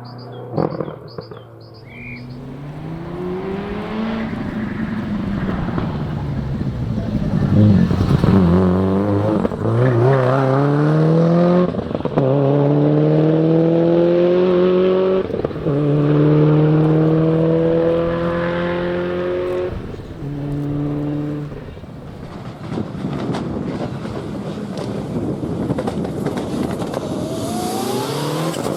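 Four-wheel-drive rally car accelerating hard through several gears. The engine pitch climbs, breaks and drops at each upshift. It fades away about two-thirds of the way through, and near the end another car comes in with its engine revving up.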